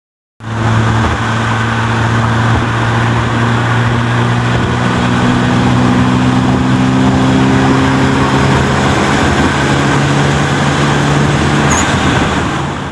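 Loud vehicle engine running, with a steady hum whose pitch creeps slowly upward. It starts suddenly and cuts off near the end.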